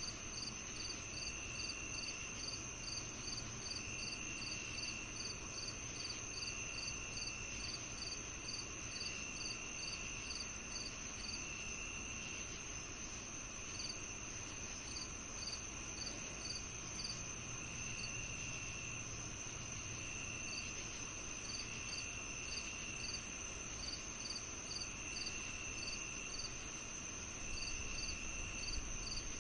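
Chorus of crickets and other insects. A continuous high trill runs under a steady series of chirps at about two or three a second. A lower trill comes in bursts of about a second with short gaps, drops out for several seconds around the middle, then returns.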